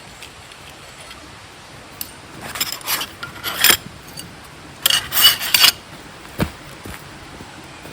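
Scraping and rubbing of handled objects in two short bursts, followed by a single low knock, over a steady background hiss.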